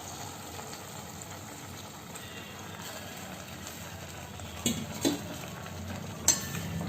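Chicken and masala cooking in a pan, a steady sizzle, with a few sharp clinks of a utensil against the pan near the end.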